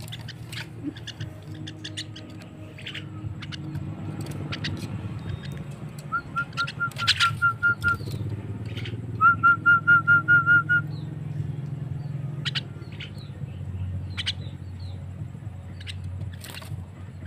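Javan myna calling: scattered short sharp chirps and clicks, with two fast runs of about eight clear whistled notes, each run lasting about a second and a half, about six and nine seconds in. A steady low hum lies underneath.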